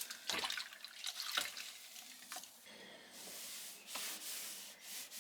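Water running briefly from a tap into a sink, preceded by a series of small clicks and knocks of things being handled.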